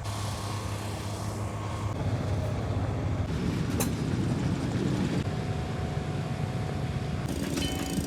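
Engine running steadily in the background, a low hum and rumble, with a single sharp click about four seconds in.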